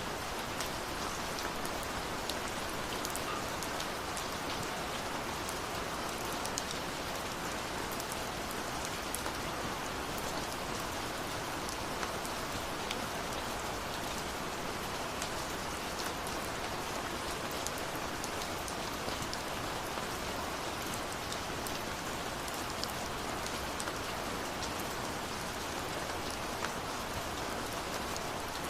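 Steady rain falling, an even hiss with many individual drops ticking sharply on hard surfaces.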